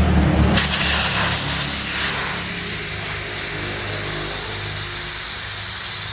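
An engine running steadily, with a loud hissing spray starting about half a second in and continuing.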